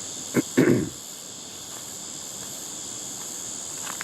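Steady high-pitched chorus of insects in the bush, with two short loud noises close together under a second in.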